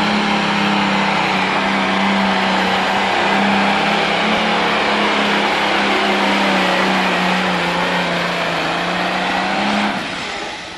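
Modified diesel pulling tractor's engine running flat out at a steady high pitch under full load during a pull, fading away near the end.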